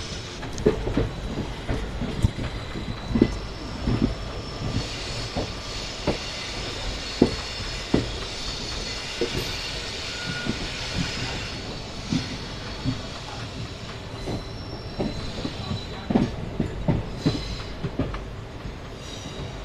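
Passenger train rolling slowly into a terminus station, heard from on board: the wheels knock irregularly over rail joints and points. A high wheel squeal rises through the middle stretch and fades near the end.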